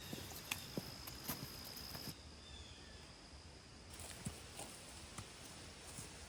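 Footsteps of a hiker walking a woodland trail: irregular soft steps and small knocks over a faint outdoor hiss. A thin, steady high tone sounds for about two seconds near the start.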